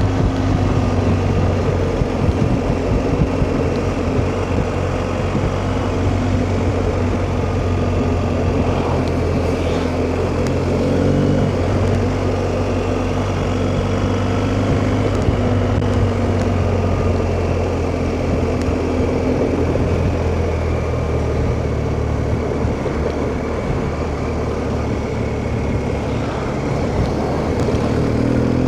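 BMW R1250GS Rallye's boxer-twin engine running steadily under way, its pitch drifting a little now and then with the throttle.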